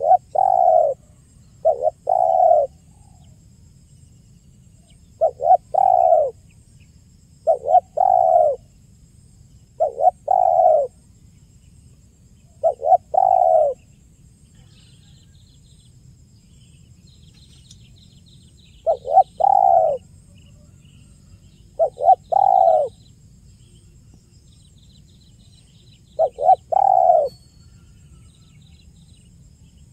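Spotted dove (tekukur) cooing in the 'kuk 1' style, the call used as a lure: each phrase is a quick note or two and then a longer coo. The phrase comes nine times, every two to three seconds, with a pause of about five seconds in the middle. Faint chirps of small birds are heard in the background during the middle.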